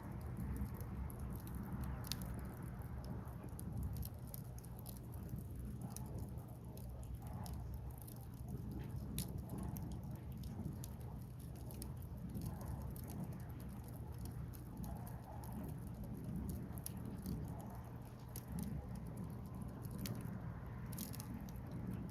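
Firewood burning in an open fire, crackling with scattered sharp pops and ticks, over a steady low rumble.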